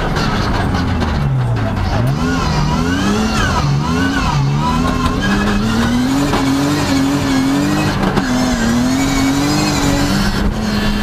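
Turbocharged rally car engine heard from inside the cabin under hard driving. The revs drop about a second in, swing up and down several times, then climb in steps with short dips at each upshift, and fall again near the end.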